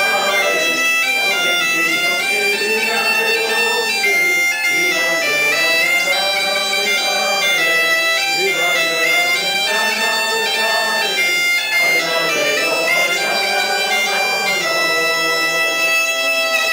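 Bagpipes playing a tune of stepped, held notes over a continuous steady drone.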